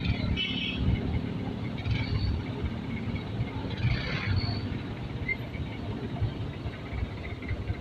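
Steady low rumble of a passenger jeepney on the move: engine and road noise.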